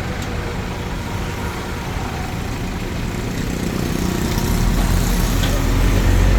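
A Hitachi DX45M bulldozer's diesel engine running steadily. It grows louder about four and a half seconds in.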